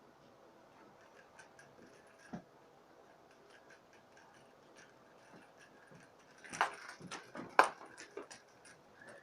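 A cat at play: scattered light ticks and taps, a single knock about two seconds in, and a burst of louder taps and rustling about six and a half to eight seconds in.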